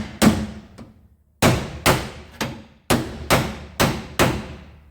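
A hammer striking the crash-damaged steel body panel of a Nissan R31 Skyline, about nine blows at roughly two a second, each ringing briefly: panel beating to knock the rear quarter back into shape.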